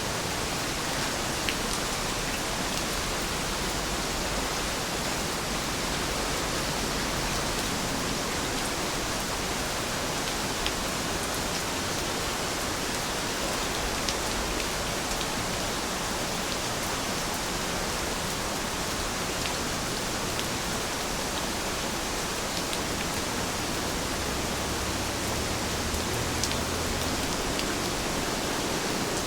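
Steady rain falling: an even hiss, with scattered faint drop ticks.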